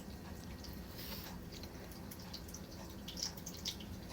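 Faint handling sounds: a few small clicks and taps, the sharpest near the end, over a low steady room hum.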